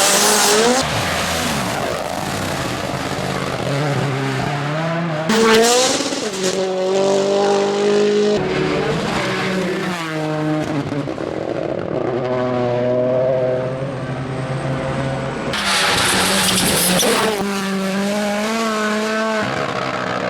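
Rally cars at speed on a special stage, engines revving hard and dropping back through gear changes as one car after another goes by. Some tyre squeal as they corner, with a louder rush of noise twice, a few seconds in and again past the middle.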